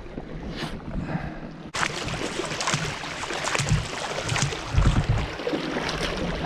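Kayak paddling: water splashing and sloshing with each paddle stroke, with a few low thumps in the middle. The sound grows suddenly louder and brighter about two seconds in.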